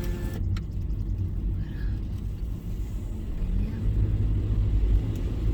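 Steady low rumble of a car heard from inside the cabin. Just after the start, a power window motor stops with a click.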